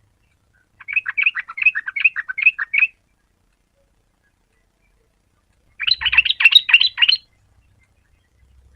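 Yellow-vented bulbul singing: two quick phrases of rapid, chattering high notes, the first about two seconds long, the second shorter about six seconds in.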